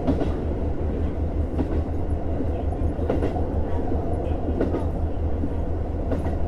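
Onboard running sound of a JR Hokkaido KiHa 150 diesel railcar: a steady low diesel engine drone and rolling rumble, with the wheels knocking over rail joints about every one and a half seconds.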